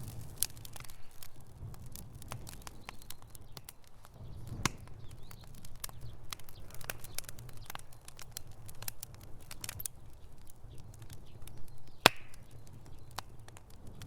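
Wood fire in a fireplace crackling: irregular sharp pops and snaps over a low, steady rumble of burning, with one louder pop about twelve seconds in.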